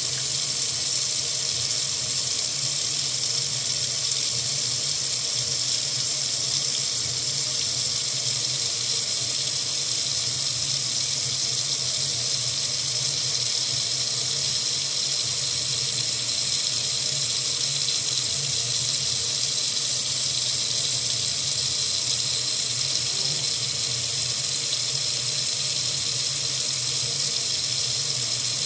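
Water tap running steadily into a sink, an even, unchanging hiss of falling water.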